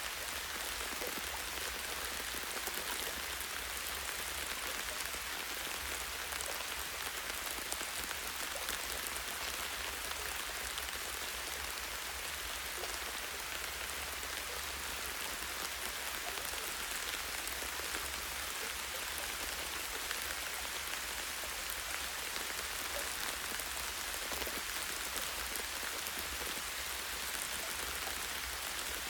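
Steady light rain falling on tree foliage, a constant patter of drops with scattered individual drip ticks.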